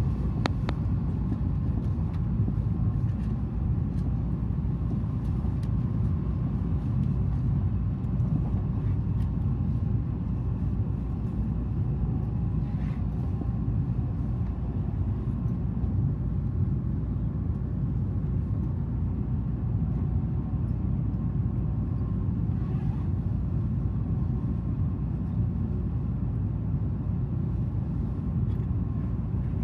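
Steady low rumble of a Tokaido Shinkansen train running at speed, heard from inside the passenger cabin.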